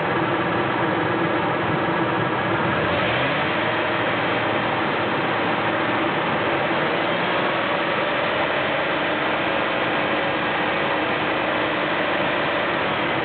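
Ford 4.6L Triton SOHC V8 in a 1998 F-150 idling steadily after a cold start, with a slight shift in its tone about three seconds in.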